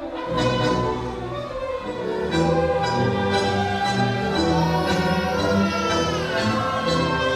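Orchestra with violins playing a tango arrangement: sustained string notes over a moving bass line, with a falling slide in the higher part about six seconds in.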